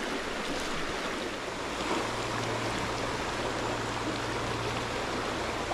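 Shallow stream's pocket water rushing steadily over rocks.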